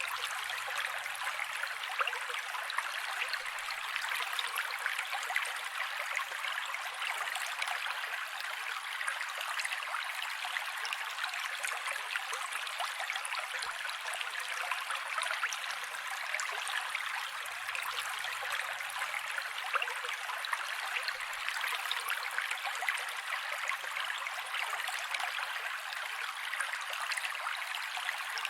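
Mountain creek running: a steady, bright rush of flowing water with fine splashing and bubbling, and no low rumble.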